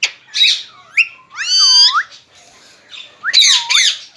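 Pet parrot squawking: a few short calls, then two longer calls that swoop down in pitch and back up.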